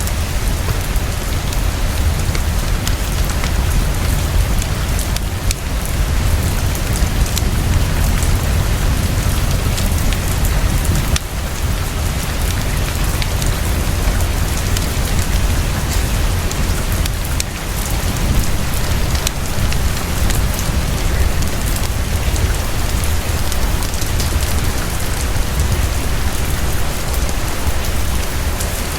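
Heavy, fast, steady rainfall, with a deep low rumble beneath it that does not let up.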